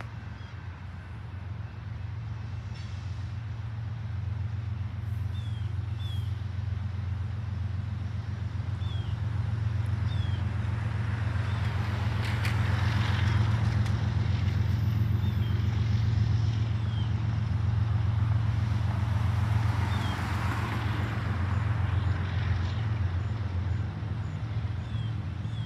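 A long train rolling past with a steady low rumble. Two louder swells of rushing noise rise and fade, about halfway through and again around three-quarters of the way in.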